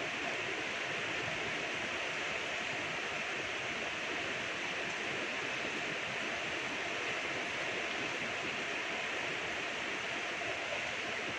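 Steady rain falling, an even hiss with no separate drops or changes standing out.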